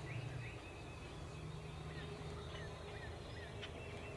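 Small songbird calling in quick runs of short, falling, high chirps, over a steady low rumble, with a single click near the end.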